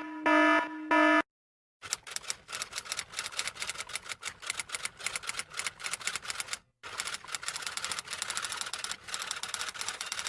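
Rapid, irregular key clicks of a typing sound effect, with one short pause midway. Before the typing starts there are two short electronic beeps.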